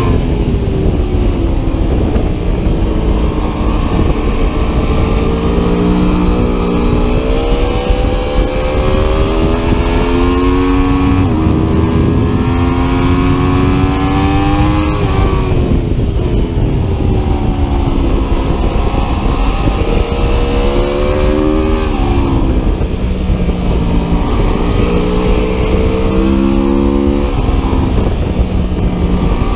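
Aprilia Tuono V4 RR's 1077 cc V4 engine pulling hard on track, its pitch climbing through the gears for several seconds at a time, then falling sharply each time it slows for a corner. A loud steady rush of wind or road noise lies underneath.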